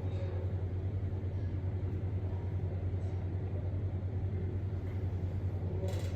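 A steady low rumble throughout, with a couple of short clicks near the end.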